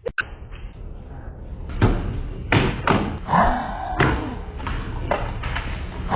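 A series of dull thumps and knocks, about half a dozen, spread over a steady background noise.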